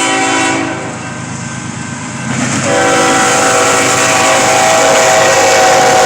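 Locomotive air horn sounding a chord of several tones: a short blast at the start, then a long, louder blast from about two and a half seconds in, over the steady rumble of the approaching train.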